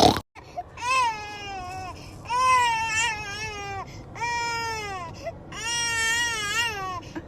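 Dog whining in four long, high-pitched cries, each falling in pitch, after a sharp click at the start.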